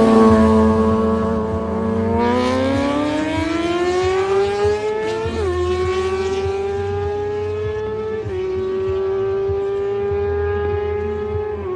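Kawasaki ZX-6R inline-four engine screaming at high revs under hard acceleration, its pitch climbing and then dropping briefly at an upshift about five seconds in, again about eight seconds in, and near the end.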